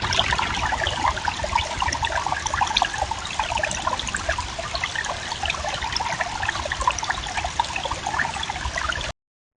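Water trickling and pattering: a dense, steady run of small drips and splashes that cuts off suddenly near the end.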